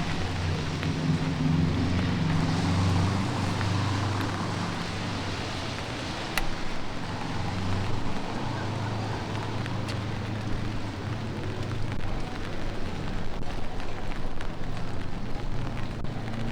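Light rain falling on a city street, with the low, steady hum of a vehicle engine running and a few scattered clicks.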